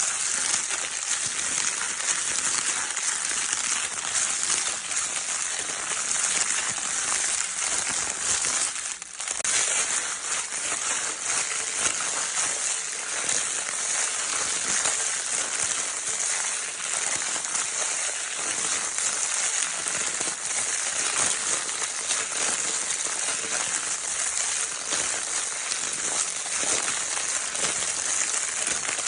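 A baby's crinkle paper toy being crinkled continuously: dense, steady crackling made of many fine ticks, with a brief dip about nine seconds in.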